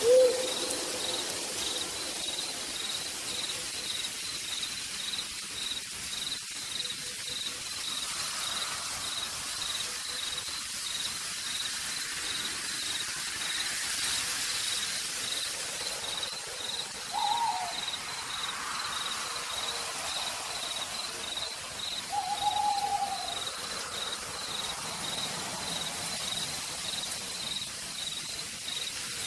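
Steady rain falling through forest, with an insect trilling in a regular pulse. An owl hoots loudly at the very start and calls twice more, briefly, a little past halfway and about three quarters of the way through.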